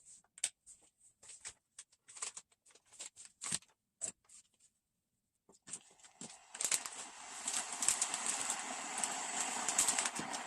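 A run of light, irregular clicks and taps, then a steady rushing noise that comes in about six seconds in, grows louder and holds.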